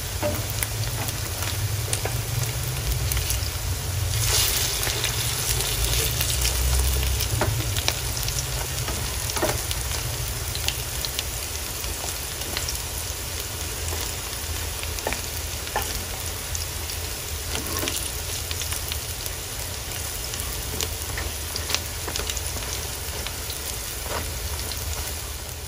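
Oil sizzling and crackling steadily around battered shrimp fritters shallow-frying in a pan, with scattered sharper pops and clicks over a low hum.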